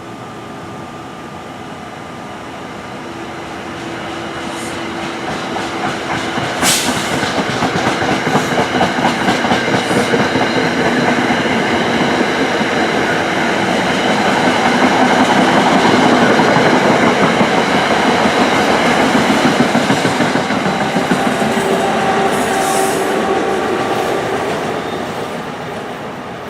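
Electric passenger train passing at speed, its wheels clacking rhythmically over the rails. The sound builds from about four seconds in, is loudest around the middle, and fades near the end, with one sharp click about seven seconds in.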